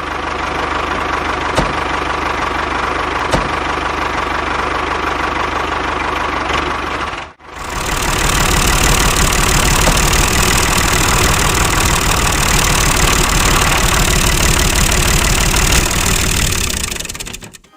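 Small engine running steadily, with two sharp ticks in the first few seconds. It cuts out sharply about seven seconds in and comes back louder.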